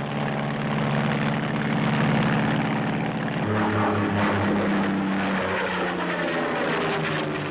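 Curtiss XP-55 Ascender's propeller and Allison V12 piston engine droning steadily in flight, with the engine note shifting about halfway through.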